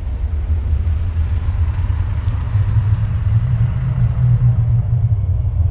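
Police car engine running with a steady deep rumble as the car drives along.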